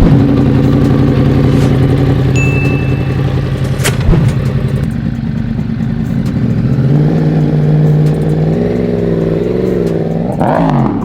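Yamaha R1's inline-four with a Toce exhaust idling on a cold start, a steady fast idle that shifts and wavers in pitch after about seven seconds, with a single knock about four seconds in. Near the end the throttle is blipped once, rising in pitch before the sound cuts off suddenly.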